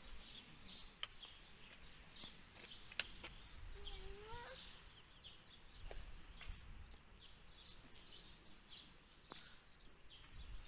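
Small birds chirping faintly: many short, high chirps repeated over and over. A few sharp clicks sound, and a brief rising call comes about four seconds in.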